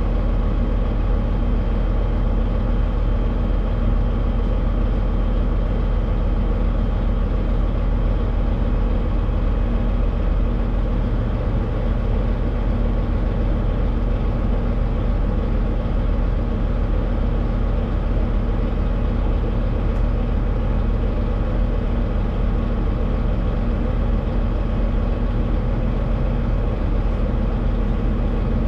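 Semi truck driving down the road: a steady drone of engine and road noise that does not change.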